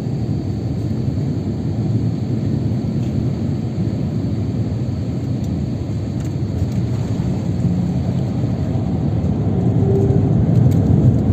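Steady low rumble of a jet airliner heard from inside the passenger cabin during landing, growing louder near the end.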